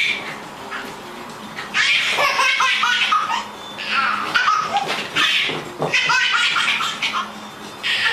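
High-pitched calls from a pet animal mixed with laughter, in several short bursts.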